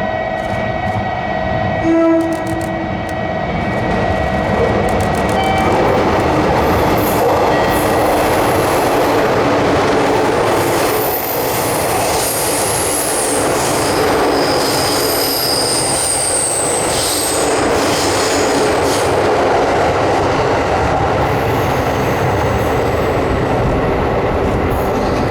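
A 12-car 415 series electric train runs through the station at speed, with a long steady rush of wheel and rolling noise. A short horn note sounds about two seconds in, and high wheel squeals come and go through the middle of the pass.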